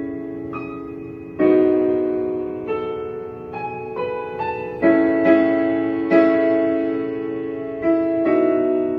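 Slow piano introduction to a ballad: sustained chords struck every second or two, each ringing and fading before the next.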